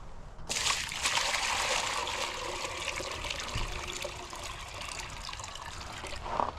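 Water running steadily, starting suddenly about half a second in and stopping near the end, as when a waterer or container is filled.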